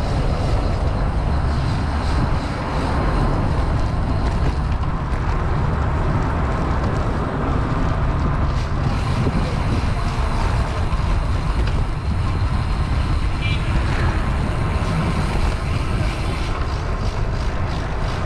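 Wind rushing over a camera microphone on a moving bicycle, a steady low rumble with road and traffic noise mixed in.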